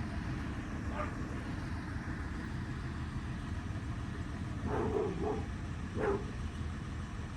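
Garbage truck engine running with a steady low rumble, while a dog barks once about a second in and three times a little past the middle.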